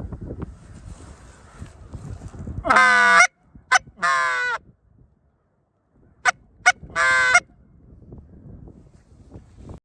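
Goose honking: a long honk about three seconds in, then a run of shorter honks between about four and seven and a half seconds in. Low wind rumble runs between the honks.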